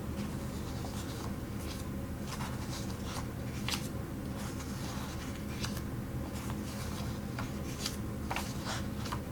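Small clicks and light rustles, scattered irregularly, from nail stencil sheets and their packaging being handled, over a steady low hum.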